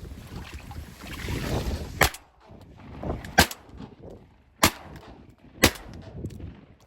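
Duck hunters' shotguns firing a volley: four sharp shots about a second apart, starting about two seconds in.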